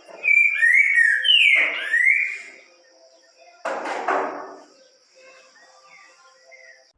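Green-winged saltator (trinca-ferro) singing a loud phrase of clear, sliding whistled notes, followed about three and a half seconds in by a short rough noise and then fainter chirps.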